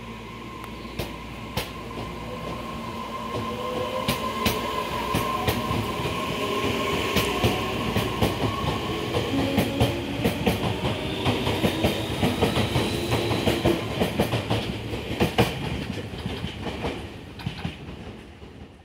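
Tobu Urban Park Line electric commuter train pulling out past the platform: a motor whine rises in pitch while the wheels clack over rail joints. It grows louder as the cars go by, then fades as the last car leaves.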